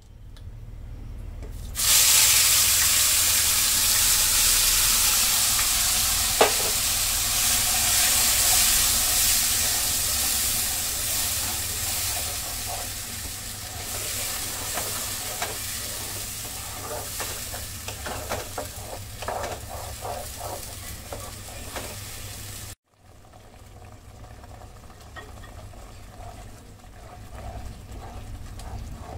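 Wet tomato-onion paste hitting hot oil in a nonstick kadai: a sudden loud sizzle starts about two seconds in and slowly dies down. Through it a spatula stirs, scraping and tapping against the pan. Near the end the sizzle is quieter.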